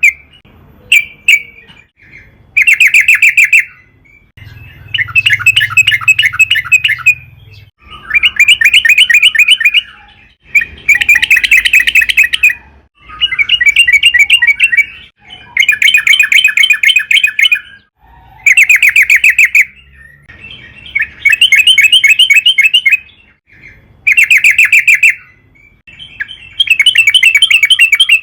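Yellow-vented bulbul (trucukan) singing energetically: loud phrases of rapid chattering notes, each one to two seconds long, repeated about ten times with short pauses between.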